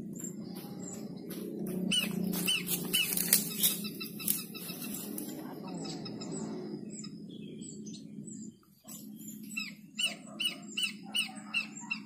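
Bird calls: two runs of short, sharp chirps repeated about two or three times a second, the second run louder, over a steady low hum.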